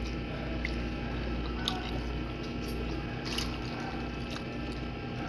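A person chewing barbecued chicken with a few short wet clicks of the mouth, over a steady low hum.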